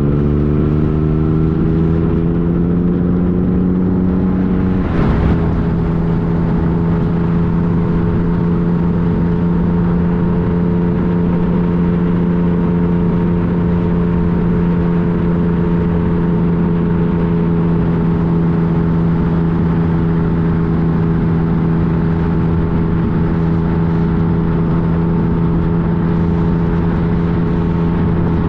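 2015 Yamaha FJ-09's inline three-cylinder engine pulling, its pitch rising. About five seconds in the revs drop at an upshift, and the engine then runs steadily at cruising speed over a steady rush of wind noise.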